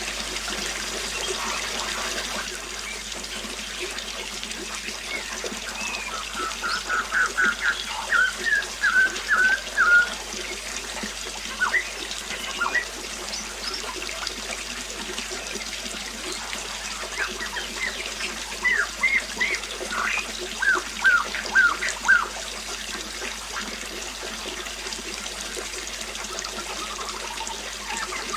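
Water trickling steadily, with a small bird chirping in two quick runs of short, repeated notes, one about a quarter of the way in and another past the middle.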